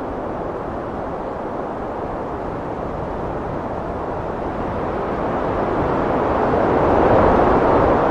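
Heavy wind blowing in a steady rush, swelling into a louder gust about five seconds in.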